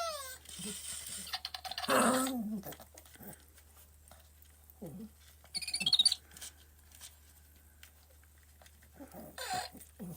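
Intermittent chirps and squeaks from a battery-powered Zhu Zhu Pets robotic hamster toy, mixed with small sounds from a chihuahua puppy playing with it. The sounds come in short spells, loudest about two seconds in and again about six seconds in, with quiet between.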